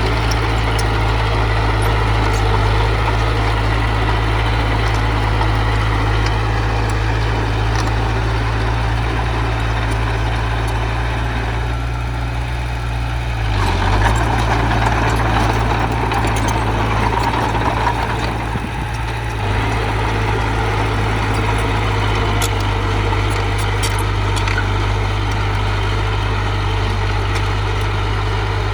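Heavy diesel engine of earth-moving machinery running steadily. About halfway through the engine note dips and then grows louder for a few seconds before settling back.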